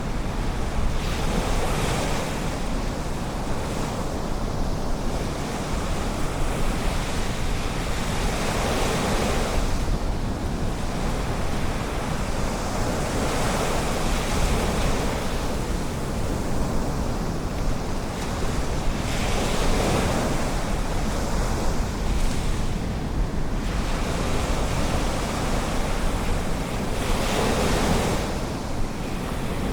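Ocean waves breaking and washing in on a beach, swelling every few seconds over a steady rush of surf, with wind buffeting the microphone.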